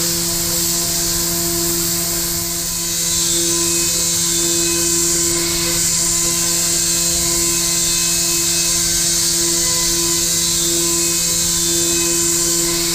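Okuma GENOS M660-V e vertical machining center milling, a steady spindle whine at two pitches with a high hiss over it that grows louder about three seconds in.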